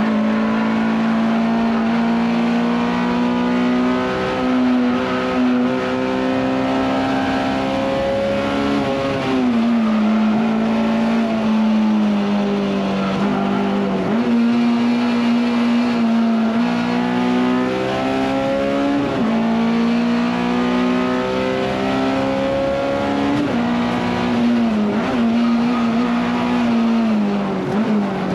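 Honda S2000 race car's four-cylinder engine heard from inside the cabin, held at high revs through the lap. Its pitch dips briefly and climbs back several times, about a third of the way in, near the halfway mark, and toward the end.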